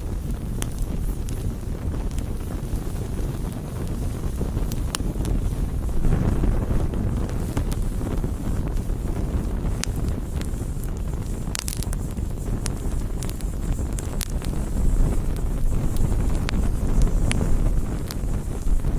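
Wood campfire burning: sharp crackles and pops come every second or so over a low steady rumble, which swells about six seconds in and again late on.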